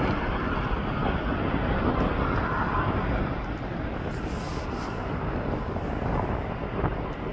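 Steady aircraft engine noise mixed with wind buffeting the microphone.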